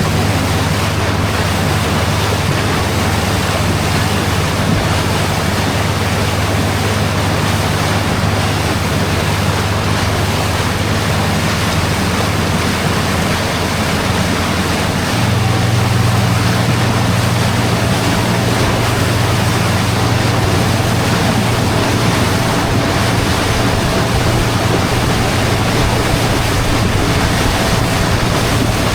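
Small motorboat's engine running steadily under way, with water rushing past the hull and wind on the microphone. About halfway through, the engine note steps up a little higher and louder, then holds steady.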